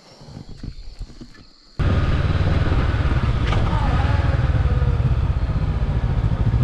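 A few faint knocks, then about two seconds in a sudden switch to a motorcycle engine running steadily under way, loud, with a dense low pulse and road and wind rush above it.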